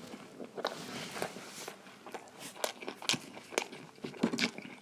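Close-up eating sounds as a large momo, a steamed dumpling, is bitten and chewed: an irregular run of sharp mouth clicks and smacks, several a second.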